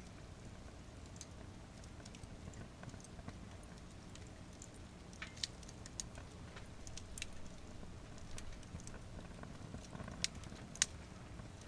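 Firewood burning in a campfire stand: irregular crackles and sharp pops over the low steady rush of the flames, with two louder pops near the end.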